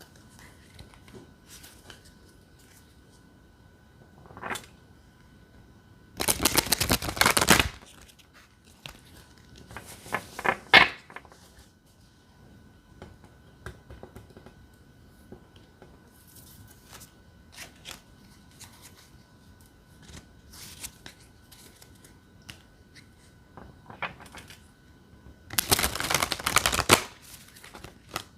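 A tarot deck being shuffled by hand: two loud bursts of rapid card flutter, each about a second and a half long, about six seconds in and again near the end. Between them are quieter taps and slides of cards being handled.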